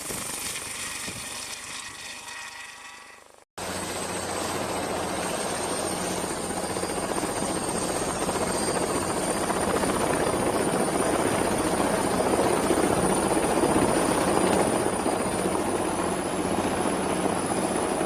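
A first sound fades out and cuts off about three and a half seconds in. Then a helicopter runs steadily, its rotor and turbine heard together, with a high thin whine above.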